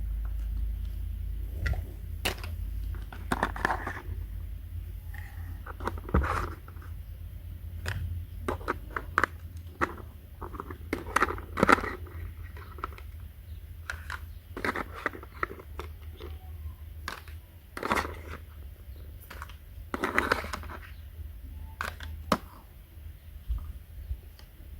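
Small objects being handled: irregular clicks, scrapes and short crackling rustles, with a steady low hum underneath.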